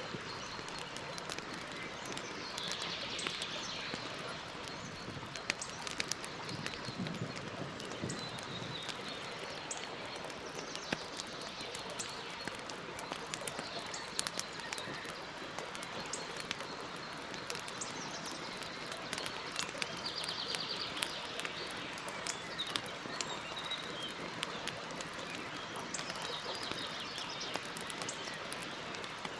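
Campfire crackling, with scattered sharp pops over a steady hiss, and birds calling in the background several times.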